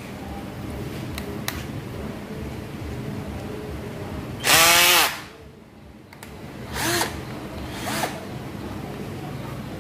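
Handheld electric power driver spinning in short bursts on the nuts of a motorcycle engine's top cover: one loud, half-second run with a rising then falling whine about halfway through, and two shorter, quieter runs later.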